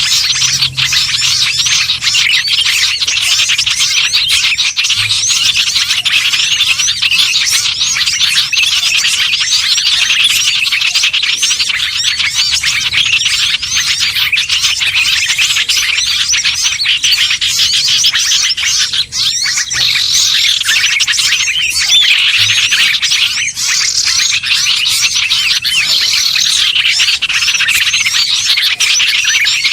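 Dense, continuous chorus of many small songbirds chirping and twittering over one another: a lure recording for calling in small birds.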